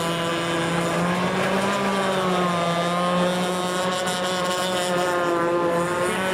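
Small engine of a radio-controlled model boat running steadily at high revs, its pitch rising and falling slightly.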